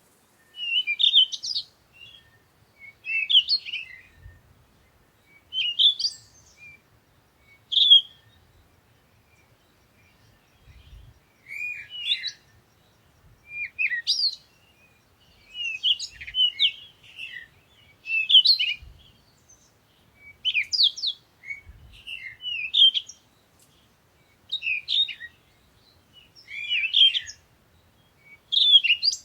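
A songbird singing short chirping phrases every second or two, with a pause of a few seconds about a third of the way in.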